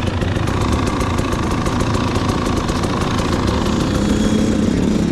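Two-stroke dirt bike engine running steadily at low revs, its pitch lifting slightly about four seconds in.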